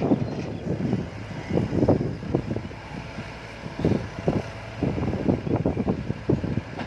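Tractor's diesel engine running, with an uneven low rumble.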